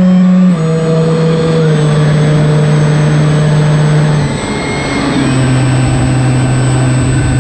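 Electric motor and propeller of an Opterra RC flying wing running at steady throttle with a high whine. It drops in pitch about half a second in and again about four and a half seconds in as the throttle is eased back.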